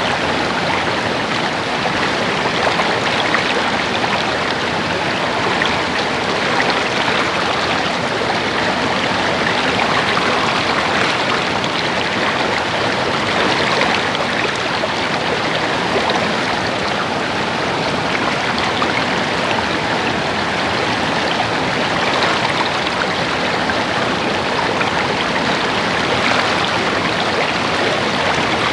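Stream water babbling and splashing steadily over rocks.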